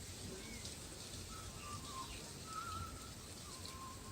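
Birds calling faintly: a few short, wavering whistled phrases.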